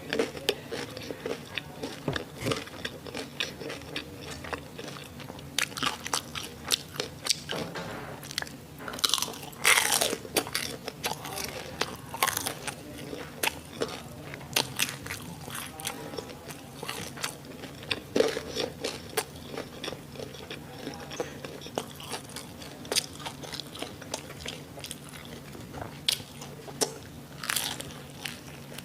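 Close-miked biting and chewing of crispy fried sausages and onions: a steady run of sharp crunches and wet mouth clicks, with the loudest, longer sound about nine to ten seconds in.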